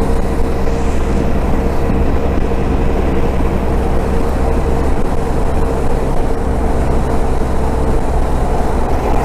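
Motorcycle running at a steady cruising speed, heard with heavy wind rumble on the rider's microphone and a constant engine hum.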